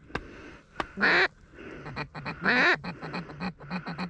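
Ducks quacking loudly: two long, drawn-out quacks falling in pitch, then a quick run of short quacks. A sharp click comes just before the first quack.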